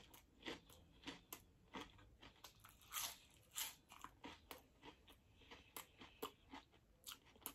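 A person chewing a mouthful of crunchy deep-fried onion ring, close to the microphone: a run of faint, irregular crunches, two or three a second.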